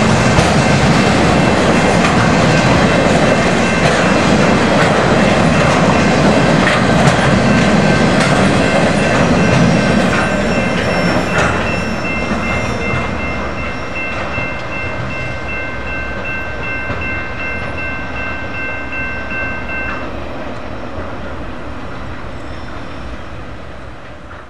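Empty freight train cars rolling past on the rails, clickety-clacking over the joints, with a steady high squeal of several pitches that stops about 20 seconds in. The sound grows fainter from about halfway through as the train moves away.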